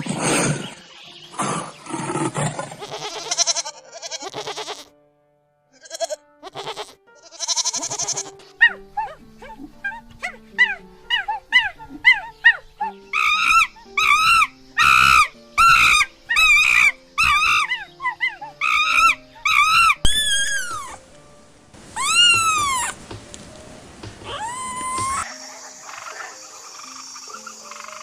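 A sequence of different animal calls: a rough roar at the start, then a long run of rapid, evenly repeated high calls, then a few single arching, whistle-like calls.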